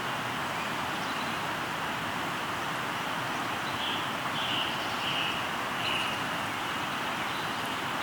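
Steady rush of a flowing river, with a bird giving four short calls about halfway through.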